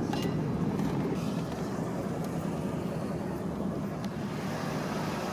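KITT replica car driving at low speed, with a steady rumble of engine and road noise heard from inside the cabin.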